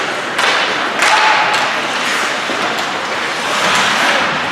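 Ice hockey game noise in a rink: a steady wash of crowd and play noise with a few sharp knocks from sticks, puck and boards.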